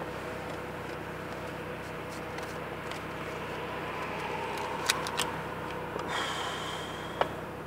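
Car engine idling, a steady hum heard from inside the cabin through a phone's microphone. A few sharp clicks sound about five seconds in and again near the end, with a short high tone between them.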